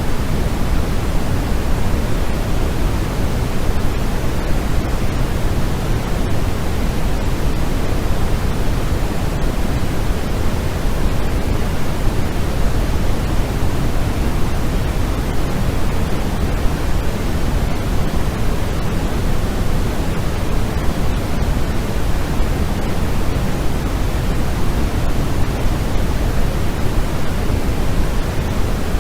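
Steady generated noise for sleep: a constant, even rush with no change, its weight toward the low end, so closer to pink noise than to pure white noise.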